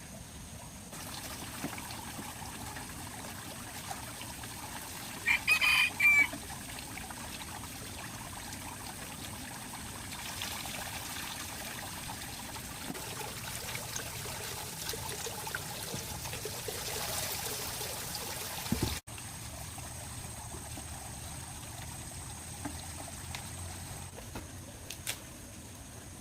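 Water trickling steadily, with one loud bird call lasting about a second, around five seconds in.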